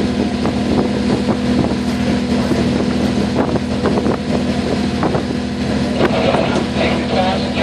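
Small passenger water taxi under way, its engine running with a steady drone over the rush of water and wind on the microphone.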